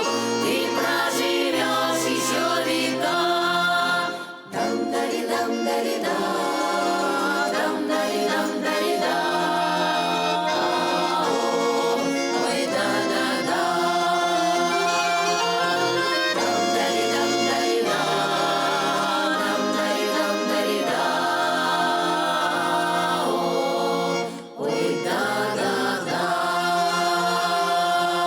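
Russian folk ensemble singing in chorus to a garmon (button accordion) accompaniment, with a stepping bass line under the melody. The music breaks off briefly twice, about four seconds in and again near the end.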